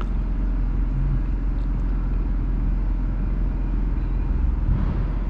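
A steady low rumble, like a motor running, with a brief swell shortly before the end.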